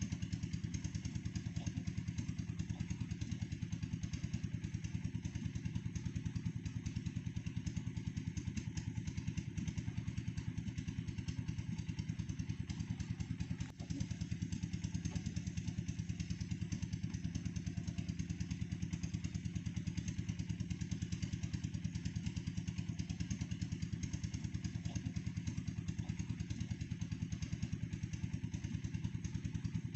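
Engine of a red-brick press machine running steadily with a rapid, even beat, dipping briefly about halfway through.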